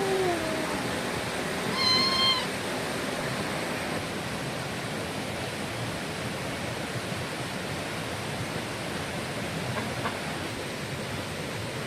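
A single short animal call, a steady pitched cry, about two seconds in, over a steady rushing noise.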